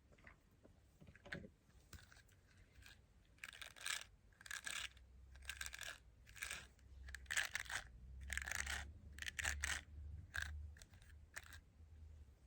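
Scratchy, crunchy handling sounds of crafting on a smartphone's camera-lens area: a quick run of short scrapes and rustles, several a second, starting about three seconds in and ending near the end.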